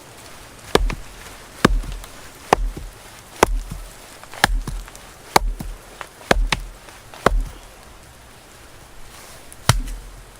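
Axe chopping wood: eight regular, sharp strokes about one a second, then a short pause and one last stroke near the end.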